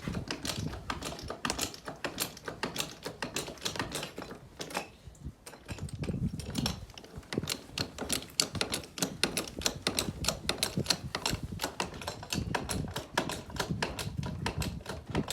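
Rapid, irregular metallic clicking, several clicks a second, from tools at work on the bent part.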